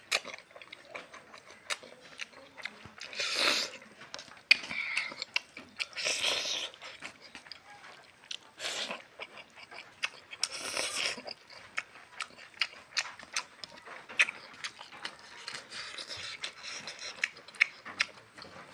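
Close-up eating sounds of a person chewing a mouthful of rice and meat curry: many quick wet mouth clicks and lip smacks. A few louder half-second rushes of noise stand out, four of them in the first half.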